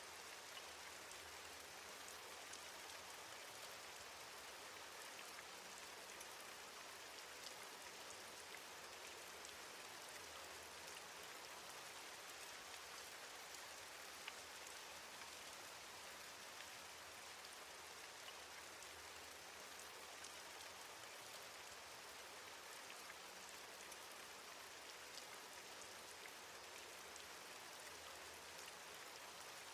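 Steady, faint rain falling, an even hiss with fine patter of individual drops and no change in intensity.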